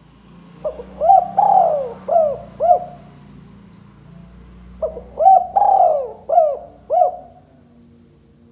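Spotted dove cooing: two phrases of several short coos each, about four seconds apart, each with one longer drawn-out note in the middle.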